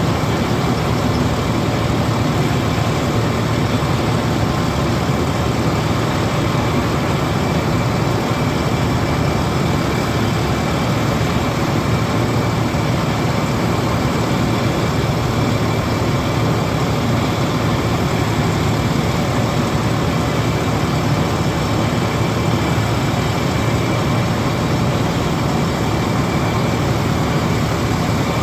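John Deere combine harvester running steadily while harvesting paddy: a constant engine and machinery drone with a thin high whine on top.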